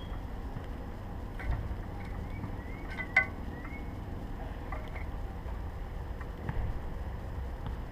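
Steady low wind rumble on the camera, with a few short rising bird chirps about two to three seconds in. One sharp click comes about three seconds in, and there are dull thumps twice.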